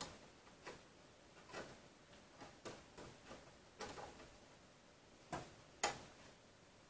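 Light, irregular clicks and taps of small hand tools and metal parts being handled, about ten in all, with the sharpest near the end.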